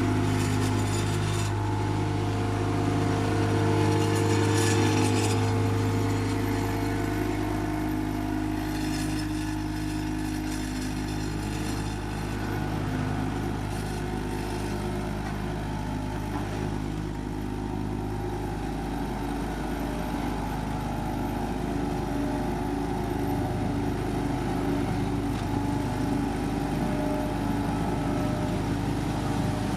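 Diesel engine of heavy road-paving machinery running steadily with a deep hum, which eases a little about two-thirds of the way through.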